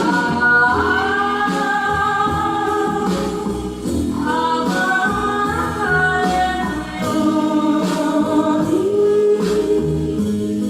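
A young woman singing a slow song in Japanese, holding long notes and sliding between them. She is backed by a live trio of bass, guitar and percussion, with the bass thumping underneath.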